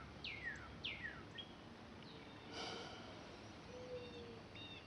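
Faint bird calls: a quick run of falling whistled notes, then a few short chirps later on, with a brief soft rustle about midway.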